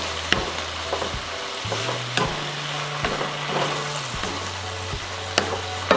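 Diced chicken sizzling in hot oil and soy sauce in a nonstick pan, stirred with a wooden spatula that scrapes the pan with a few sharp taps.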